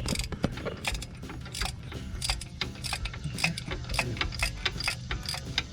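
Hand ratchet wrench clicking in a run of quick strokes, several clicks a second, as a 17 mm bolt holding the engine mount arm to the engine block is turned out.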